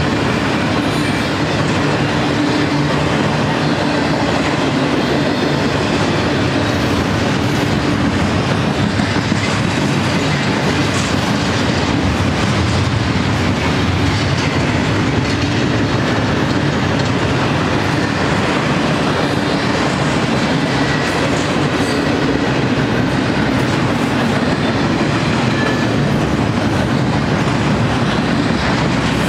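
Double-stack intermodal train's well cars rolling past steadily, steel wheels running on the rails.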